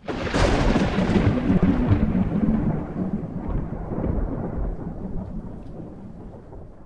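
Thunder: a sudden loud crash that turns into a long rolling rumble, slowly dying away.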